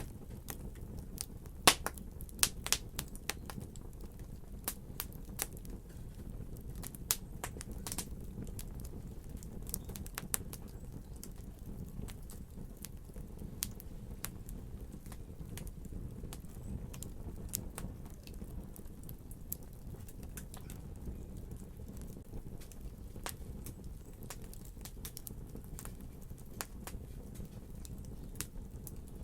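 Wood fire crackling and popping in a fireplace: irregular sharp snaps over a steady low rumble of the burning, the snaps thicker in the first half.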